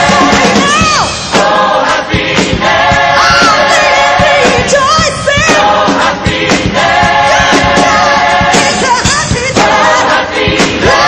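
Music with a choir singing sustained phrases over an accompaniment with a beat, in a gospel style.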